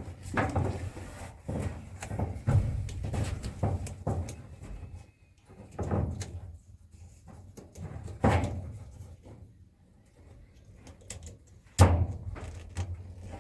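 Irregular knocks, clunks and rubbing from hands-on plumbing work, pipe fittings and tools being handled and fitted. The sharpest knock comes near the end.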